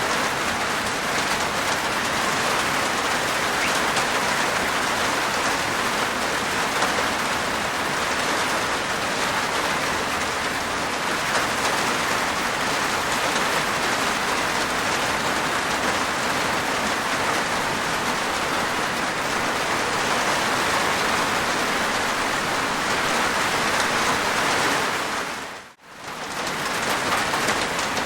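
Steady rain falling on a rooftop, an even patter of many drops. Near the end it briefly fades almost to nothing and then comes back.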